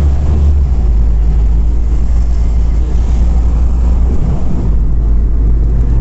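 City bus running, a steady low rumble with no change in pitch.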